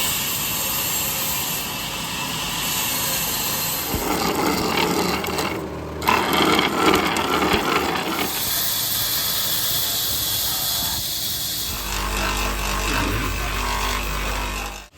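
Woodworking machinery cutting and shaping wood, heard as a series of spliced clips of saws and power tools that change sound abruptly every few seconds.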